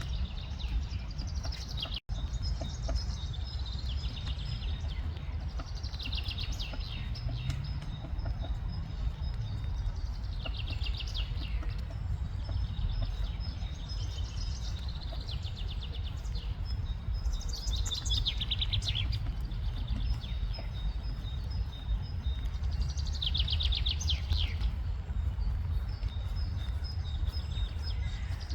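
A songbird singing short trilled phrases a few seconds apart, over the steady low rumble of rain in a forest.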